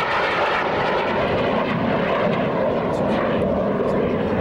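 Engine noise from a display aircraft in flight, a steady sound with no clear rise or fall.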